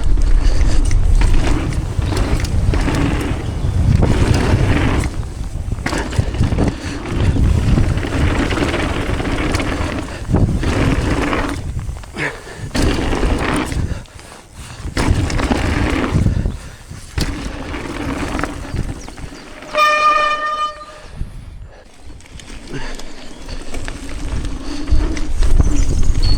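Mountain bike descending a trail: tyres rolling and the bike rattling over rough ground, with wind rumbling on the microphone and the noise rising and falling with speed. About 20 s in, a disc brake squeals with a single high pitched tone for about a second.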